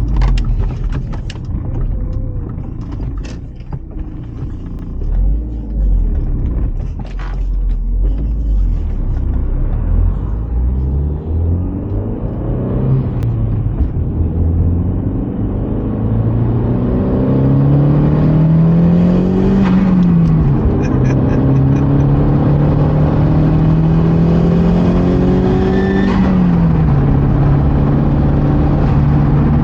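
Big-turbo Audi B5 engine heard from inside the cabin: a low cruising rumble, then about halfway through it pulls hard with the revs climbing, drops in pitch at an upshift, climbs again, drops at a second upshift, and holds steady near the end.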